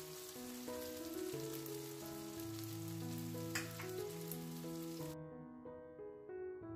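Onions and ginger-garlic paste sizzling as they fry in oil in an aluminium kadhai, under soft background piano music. A single sharp click comes about three and a half seconds in, and the sizzle cuts off suddenly about five seconds in, leaving only the piano.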